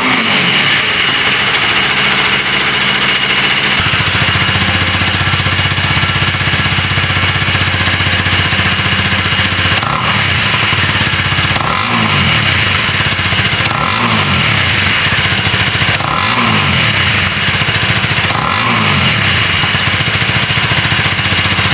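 Honda CL250's single-cylinder engine idling through its stock muffler with a deep, low exhaust note. From about halfway through it is blipped five times, about two seconds apart, each rev rising and dropping back to idle.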